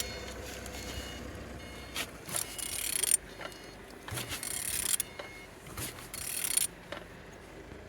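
Used engine being turned over by hand at the crankshaft: three stretches of rasping mechanical noise about a second each, with clicks and knocks in between. The engine turns over freely, a sign that it is not seized.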